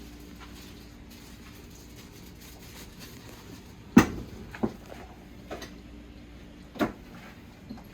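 A few sharp knocks and clunks of things being handled in a kitchen, like a cupboard or door and items being moved, the loudest about halfway through. A faint steady hum runs underneath.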